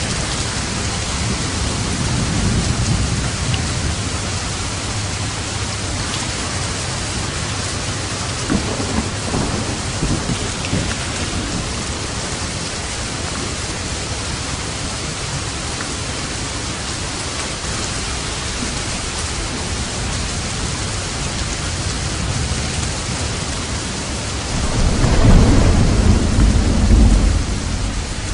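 Steady heavy rain with rolling thunder: a low rumble early on swells into a louder, deep thunder rumble near the end.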